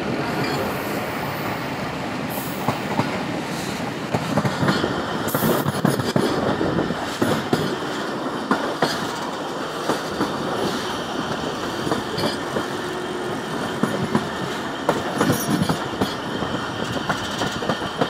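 Passenger train running, heard through an open coach window: a steady rumble and rush of air with the wheels clattering over rail joints and points in irregular clusters of quick clacks.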